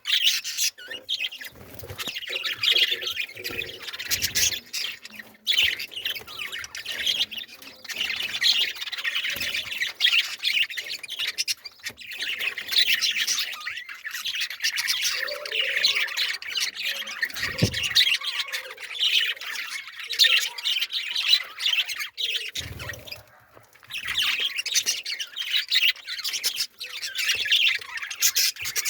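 Many small birds chirping and squawking together in a dense, continuous chatter, with a brief lull near the end and a couple of short low thumps.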